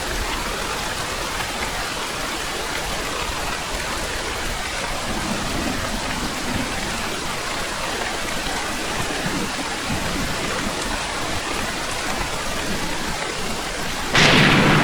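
Steady heavy rain falling. Near the end a sudden loud clap of thunder breaks in and starts to rumble.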